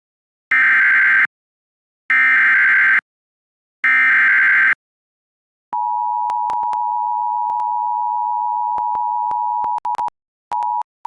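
Emergency Alert System transmission: three short bursts of the SAME digital header, a warbling data screech, followed by the steady two-tone EAS attention signal that announces a warning. The attention tone cuts out briefly twice near the end, with clicks from stream dropouts.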